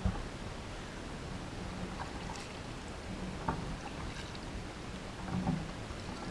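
Kayak on the river: a steady hiss of wind and moving water, with a soft knock at the start and a few light paddle knocks and splashes spread through.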